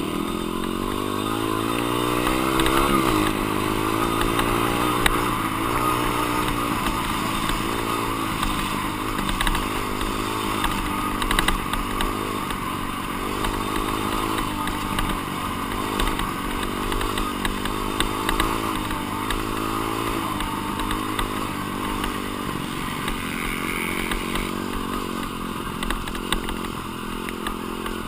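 Dirt bike engine being ridden, its revs climbing and dropping again and again every second or two as the rider accelerates and backs off.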